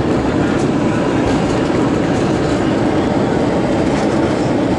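Airbus A320 just after touchdown, heard from inside the cabin: a steady, loud roar of the engines and rumble of the wheels rolling down the runway.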